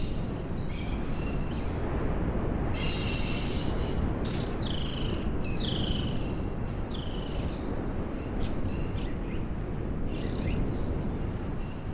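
Birds calling in a forest: short high calls, several sliding down in pitch, mostly in the middle few seconds, over a steady low rumbling background noise.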